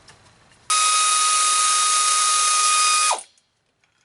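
Pneumatic wrench run for about two and a half seconds on the last engine mount bracket bolt: a loud hiss of air with a steady whine over it, starting about a second in and cutting off with the whine dropping in pitch as the tool winds down.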